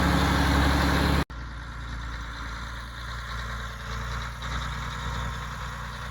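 Heavy diesel truck engine idling steadily. About a second in the sound cuts off abruptly and comes back much quieter, still a steady low engine sound.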